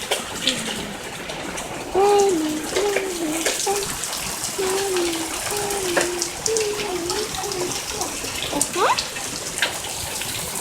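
Heavy rain pouring steadily, with scattered sharp drips and splashes. A voice hums a wavering tune from about 2 s to 7.5 s, ending in a short rising note.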